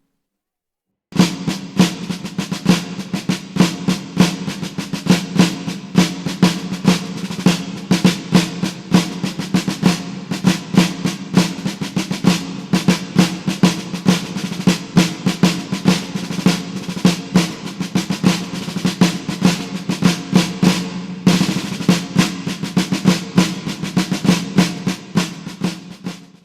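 Snare drums playing a rapid marching cadence with rolls over a steady low drum tone, starting abruptly after about a second of silence and stopping just before the end.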